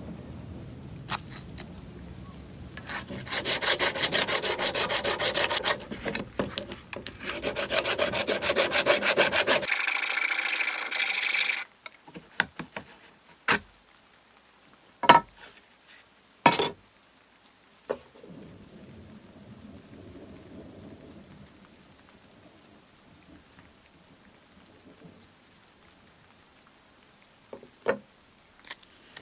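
Cutting or rasping at a knife's old handle in two loud bursts of a few seconds each, then a shorter bout, followed by a few sharp knocks.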